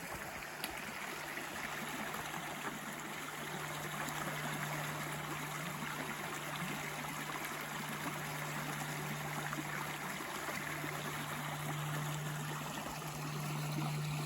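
River water flowing with a steady rush, and a steady low hum underneath from about a second in.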